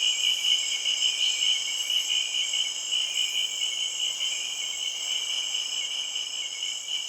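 Insects chirping in a steady, high, finely pulsing chorus.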